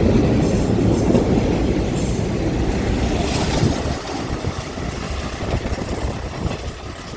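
New York City subway train running past and receding. Its wheels squeal in high tones during the first couple of seconds, and the rumble drops away about four seconds in.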